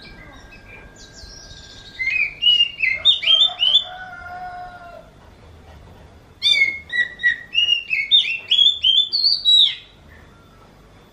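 Oriental magpie-robin singing: two bursts of quick, sliding whistled notes a few seconds apart, the first trailing off into a lower, drawn-out wavering note.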